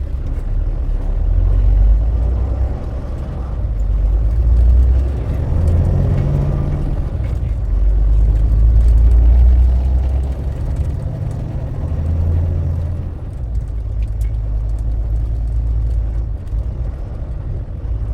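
Low rumble of a tractor-trailer truck, swelling and easing every few seconds.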